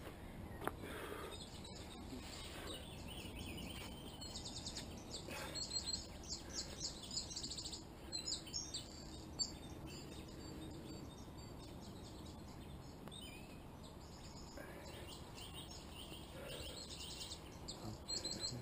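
Songbirds singing in runs of quick, high chirps, busiest in the first half and again near the end, over steady outdoor background noise.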